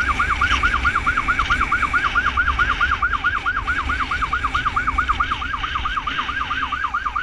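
Emergency siren on an ambulance motorcycle in its fast yelp mode, a rapid, even warble of about five falling sweeps a second, over a low engine and road rumble.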